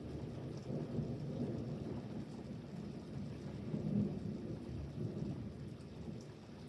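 Rolling thunder from a thunderstorm: a low rumble that swells about a second in, peaks again around four seconds in, then slowly fades.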